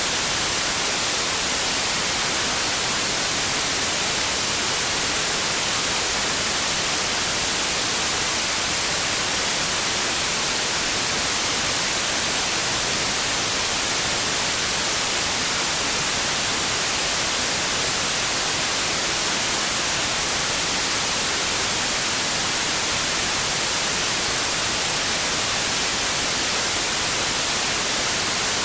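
Steady white noise: an even, unbroken hiss, brightest in the high frequencies, that does not change.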